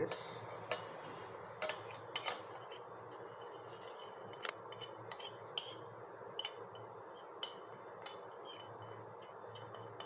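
Spoons and small bowls clinking and tapping irregularly as spice and coconut ingredients are tipped into a blender jar, a dozen or so separate sharp clinks.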